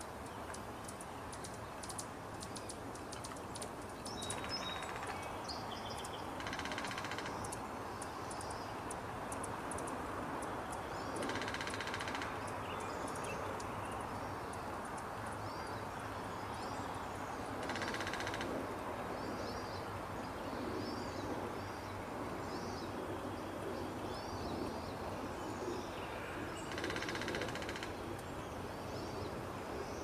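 Small birds chirping in short high calls, with five brief buzzy trills about a second long, over a steady outdoor hiss. The chirps come thicker in the second half.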